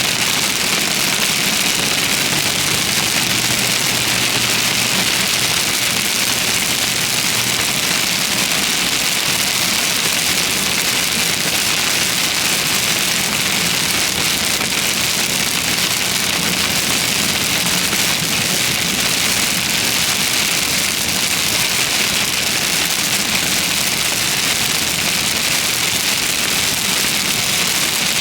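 Heavy thunderstorm rain pouring down in a steady, dense hiss, with a low vehicle engine hum under it in the first several seconds.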